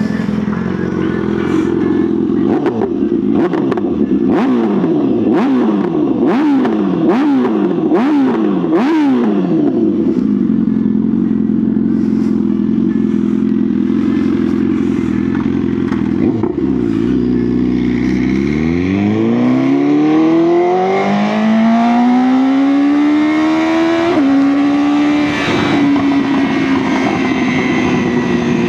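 BMW S1000R's inline four-cylinder engine being ridden. The revs rise and fall quickly over and over, then hold steady. After a brief drop to low revs about two-thirds of the way in, it pulls in one long rising acceleration, broken by a quick gear change, and eases off near the end.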